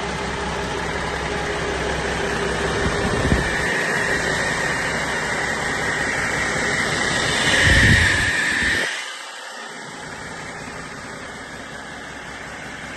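2012 Cummins ISX15 inline-six diesel engine running on a test run, with a high whine that grows louder about eight seconds in. Just before nine seconds the engine shuts off: its low rumble stops abruptly, leaving a steady hiss.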